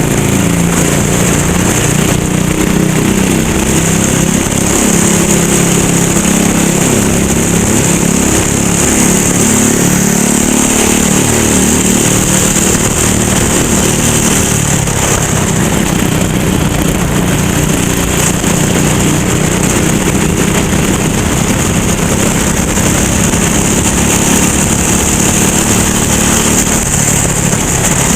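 Racing kart engine running hard, its pitch repeatedly rising and falling as it accelerates and lifts off through corners, with a steady high hiss over it.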